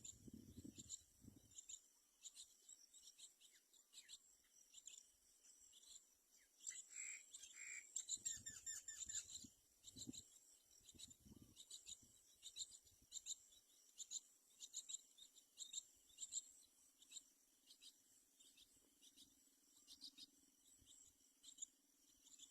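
Faint, steady insect chirping, short high pulses repeating over and over, with a few short bird calls about seven to nine seconds in.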